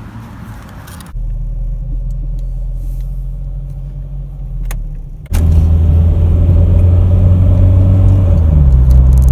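Peugeot 306 XSi at highway speed, heard from inside the cabin: a steady low engine and road drone. It steps abruptly louder about a second in, and much louder about five seconds in.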